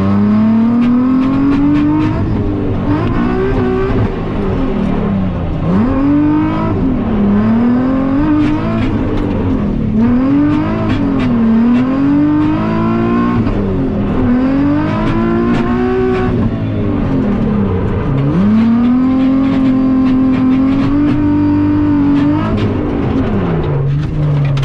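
Nissan 370Z's 3.7-litre V6 and exhaust revving hard through a drift run. The revs climb, fall and climb again over and over, are held high for a few seconds, then drop to idle near the end.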